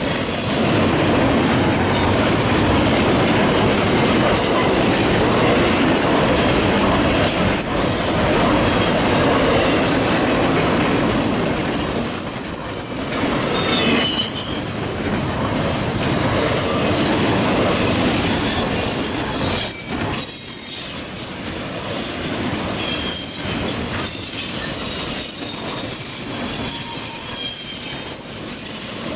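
Norfolk Southern freight train cars rolling past with a steady rumble of steel wheels on rail, and high-pitched wheel squeal coming and going over it. The noise eases a little about halfway through and again about two-thirds in.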